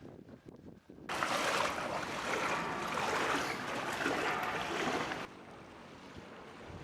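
Floodwater splashing and rushing, starting suddenly about a second in and cutting off sharply about four seconds later, with quieter outdoor noise either side.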